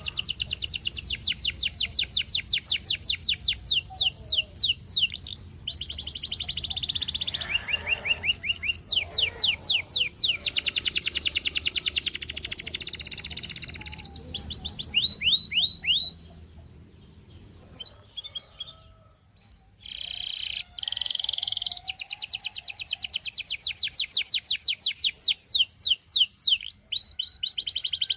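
Canary of the Russian singing type, singing fast trills of rapidly repeated falling notes in long runs. It breaks off for a few seconds a little past the middle, then resumes.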